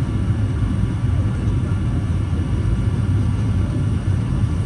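Steady low cabin rumble inside a Boeing 737-800 airliner, the even roar of engines and airflow heard from a passenger seat.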